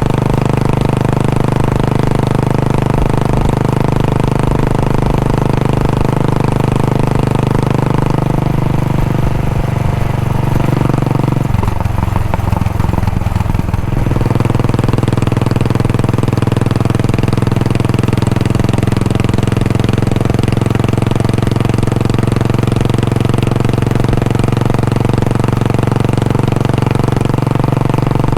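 Royal Enfield Bullet 500's single-cylinder engine and exhaust idling steadily, its note changing briefly about halfway through before settling back to a steady idle.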